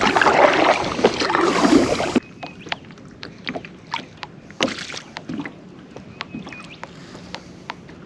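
Kayak paddling, with the paddle splashing through the water. About two seconds in it cuts to a much quieter stretch with scattered light clicks and knocks.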